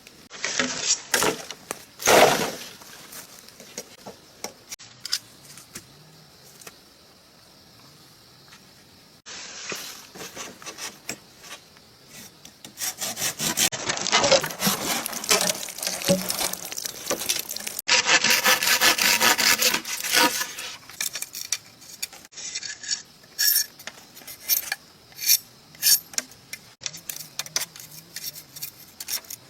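Hand sawing and rasping on wood or bamboo: repeated back-and-forth strokes in short spells that change abruptly every few seconds.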